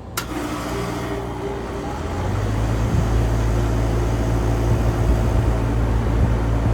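Outdoor air-conditioner condenser unit starting up: a sharp click, then the compressor and fan come up over about two seconds to a steady low hum.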